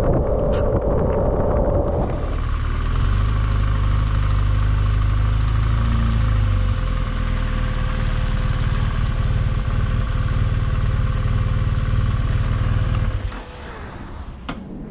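BMW R1200GSA's boxer-twin engine running steadily at low revs, then switched off about thirteen seconds in, followed by a few light clicks. The first two seconds are wind rush from riding at speed.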